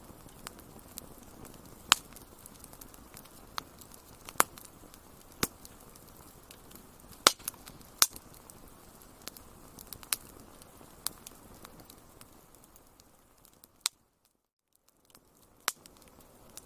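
Wood fire crackling in a fireplace: irregular sharp pops and snaps over a soft, steady hiss. The sound cuts out for about a second near the end, then the crackling resumes.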